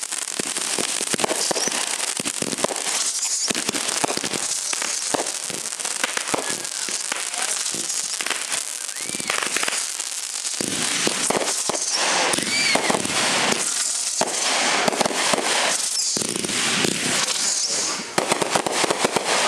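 Fireworks crackling in a dense, continuous barrage of rapid pops, with a few short whistling glides running through it.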